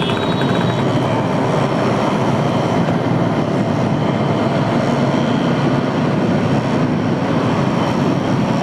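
Steady wind rush and motorcycle road noise on a helmet-mounted camera mic while riding at speed.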